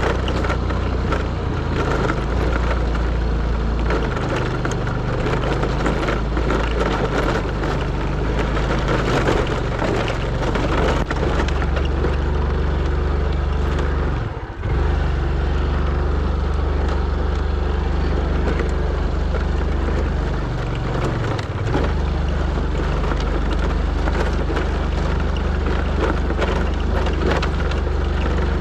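Motorcycle engine running under load on a rough dirt track, with rattling and crunching from the bumpy surface. The engine note shifts several times and drops briefly twice, about halfway through and again some seven seconds later, as at gear changes.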